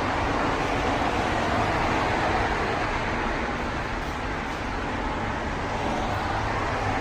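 Steady vehicle noise: a low rumble with an even hiss over it, unchanging throughout.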